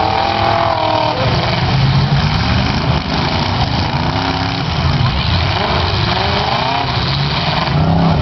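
Several demolition-derby cars' engines running and revving at once, a loud, dense mixture of engine noise with rising and falling pitch.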